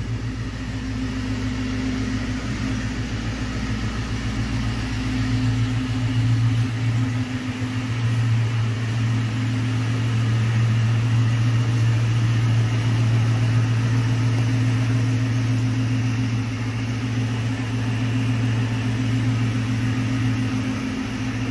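A 1999 Mustang GT's 4.6-litre V8 idling steadily, a little louder from about seven seconds in. The engine has just been rebuilt with a new crank, pistons and bearings, and the rod knock it had is gone.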